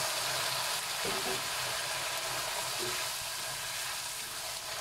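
Bakso, fish cake and egg sizzling in a hot wok of oil with a splash of water just added: a steady hiss as the liquid boils off and steams.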